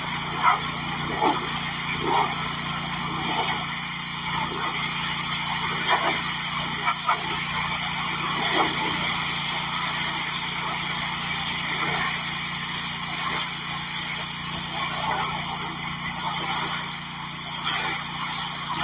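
Lawn mower engine running steadily at constant speed, with short brief sounds breaking in every second or two.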